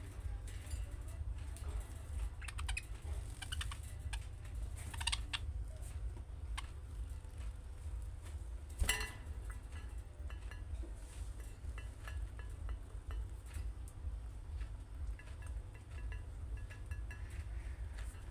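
Budgerigars chattering faintly in short chirps and clicks over a steady low rumble, with one sharp click about nine seconds in.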